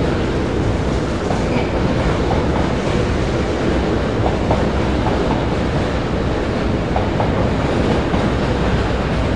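Loaded freight wagons of a Freightliner train rolling past close by: a steady rumble and clatter of wheels on the rails that does not let up.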